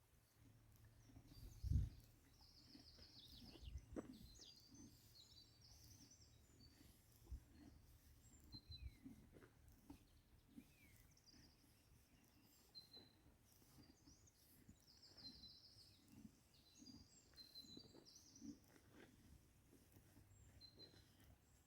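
Faint birdsong: small birds chirping and giving short trills again and again. There are a few soft low knocks, the loudest about two seconds in and another about four seconds in.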